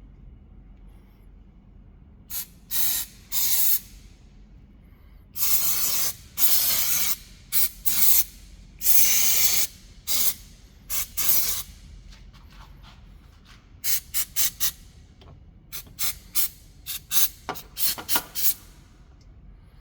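Aerosol can of contact cleaner spraying in bursts: a few short and second-long blasts, then a quick run of short spurts.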